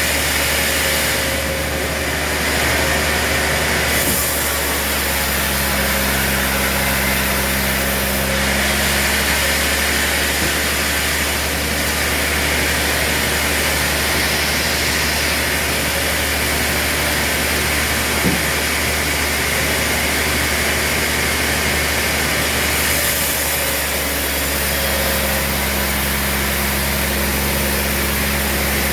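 Sawmill machinery running with a steady loud noise. A low motor hum comes in about five seconds in and again near the end, and there is a single sharp knock about two-thirds of the way through.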